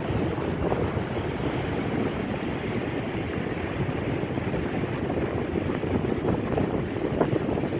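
Strong wind buffeting a cell phone's microphone, a dense rumbling noise over the surf on the beach.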